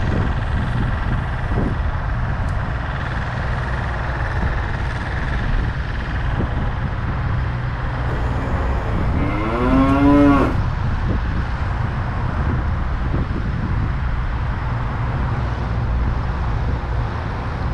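Lawnmower engines running steadily, a constant drone carried across the water. About nine seconds in, a single short voice-like call rises and falls over about a second.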